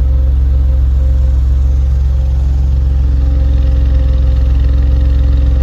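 Maserati Ghibli GT engine idling warm and steady at about 850–900 rpm, heard at the exhaust tailpipe as a loud, even low note.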